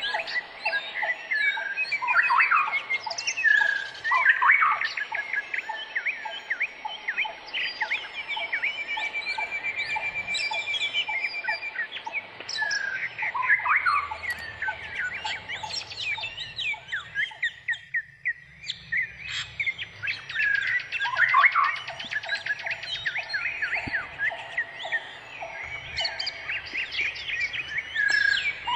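Several birds calling at once: a dense, overlapping run of short chirps, trills and whistles, thinning out briefly about two-thirds of the way through.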